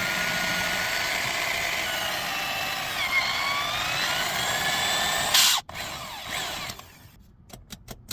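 Power drill boring a hole through a handbrake lever's button, its whine sliding in pitch as the bit loads and unloads. It stops suddenly about five and a half seconds in, followed by a few faint clicks.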